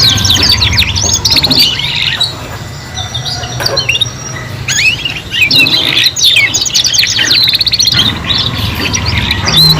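Several domestic canaries singing at once, in dense fast trills, rolls and chirping sweeps. The song thins out a little over a third of the way in, then resumes in full. These are young canaries still learning their song.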